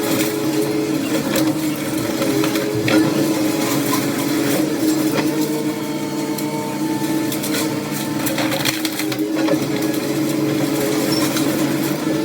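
A heavy machine's engine running steadily, with scattered cracks and crunches of demolition debris being broken or moved.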